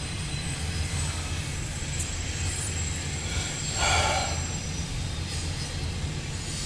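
Double-stack intermodal freight cars rolling past with a steady low rumble, heard from inside a car. Near the middle there is one brief louder noise from the passing train.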